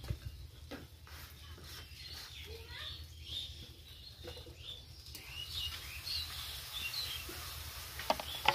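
Small birds chirping on and off, short high calls scattered through, over a low steady rumble. A couple of sharp clicks come near the end and are the loudest sounds.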